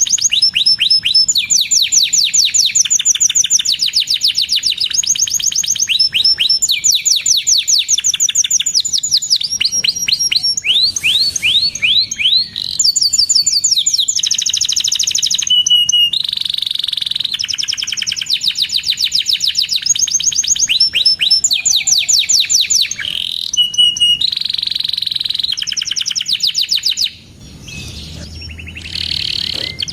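Domestic canary singing a long, loud song of rapid trills and rolls: fast runs of repeated chirp notes, shifting from one phrase to the next every second or two, with a brief pause near the end.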